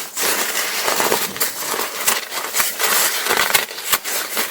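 Paraglider's ripstop nylon fabric crinkling and rustling with dense crackles as it is handled and stretched out flat for patching.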